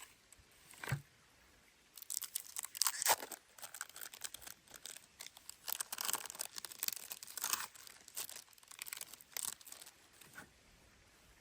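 Something crinkly being handled and torn: a run of irregular rustling and crackling lasting about eight seconds, after a single knock about a second in.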